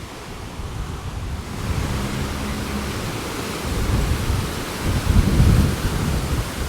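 Strong gusting wind buffeting the microphone: a low rumbling roar over a hiss, swelling in gusts that grow louder in the second half.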